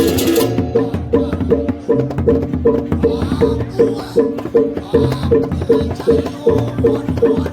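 Percussion music: pitched struck notes repeat about three times a second over a low drum, and a dense cymbal-like clashing cuts off about half a second in.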